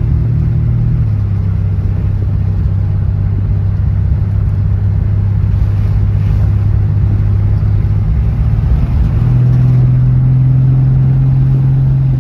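Toyota Supra's engine running steadily while the car is driven, its note dropping a little about a second in and rising again about nine seconds in.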